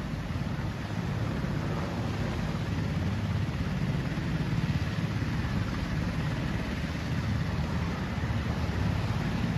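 Military helicopter's rotor and engine: a steady low throb with a haze of noise above it.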